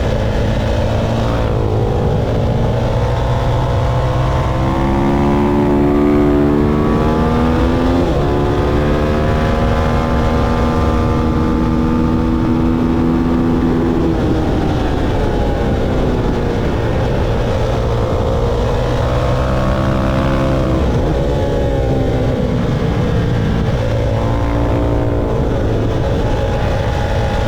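Motorcycle engine at speed on a racetrack, its pitch climbing under acceleration and falling several times, with sudden drops at gear changes and longer falls when slowing.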